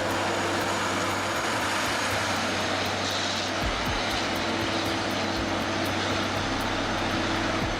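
Steady engine drone with a rushing noise, like a heavy truck running at a constant pace.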